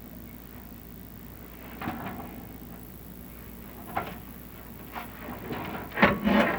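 A few separate knocks about two and four seconds in, then a louder run of knocking and scraping near the end.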